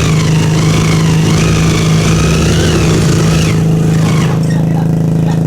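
Motorcycle engines revving hard at a drag-race launch, their pitch rising and dipping. About four seconds in they give way to a nearby motorcycle idling steadily.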